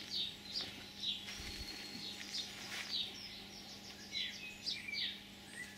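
Small garden birds chirping: short high calls, many of them quick downward sweeps, coming every half second or so.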